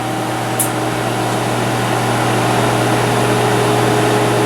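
Steady hum of a powered-up Fadal vertical machining center standing at idle: its pumps, chiller and cabinet cooling fans running, with a strong low tone under an even noise. A brief high hiss comes about half a second in.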